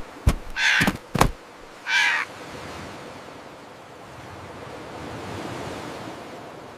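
Seagulls squawking harshly twice in the first two seconds, with a few sharp clicks among the calls, then a steady rushing hiss that swells and eases.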